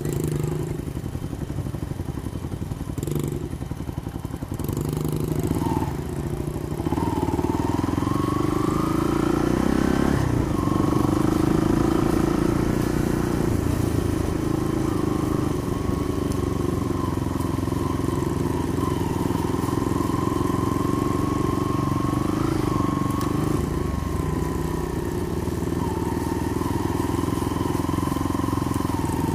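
Small off-road engine under way; its revs climb about seven seconds in, then hold steady at cruising speed.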